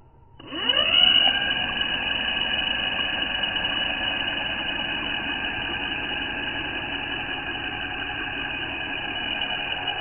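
The single electric motor and propeller of a ball-shaped drone spin up for take-off. The pitch rises quickly about half a second in, then settles into a steady whine made of several tones.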